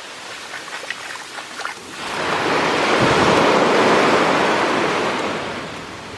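A sea wave breaking and washing up the shore: the rush of water builds about two seconds in and fades away near the end. A few light clicks come before it.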